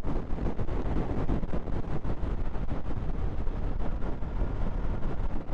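Wind buffeting the microphone of a rider at road speed on a Kawasaki GPZ 500 motorcycle, a steady rush with rapid flutter that covers the engine underneath.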